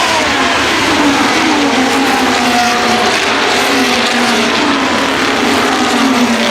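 2025 Formula 1 cars' turbocharged V6 hybrid power units running at race speed, loud and continuous. The engine notes fall in pitch several times in a row.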